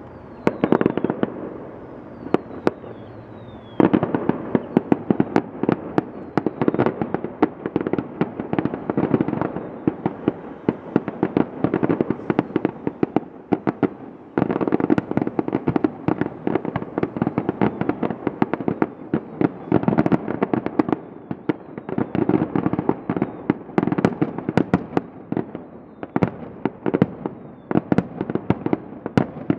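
Fireworks display: aerial shells and crackling stars bursting in rapid, overlapping pops and bangs, growing denser about four seconds in and again about halfway. A few faint falling whistles sound in the first few seconds.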